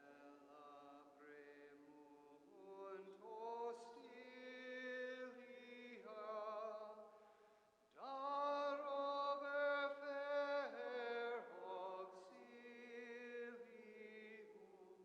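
A single voice singing a slow, unaccompanied chant-like hymn in long held notes with vibrato, phrase by phrase, swelling loudest in the middle phrase.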